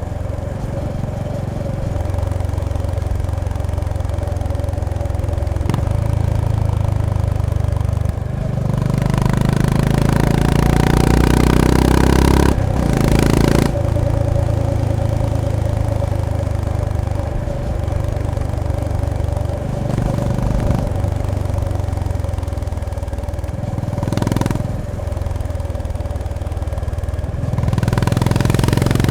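Honda GB350S's air-cooled single-cylinder engine and exhaust under way, with the engine note changing several times as the rider shifts and the throttle opens and closes. The loudest stretch is a strong pull from about nine to twelve seconds in, broken by a short gap and burst of noise.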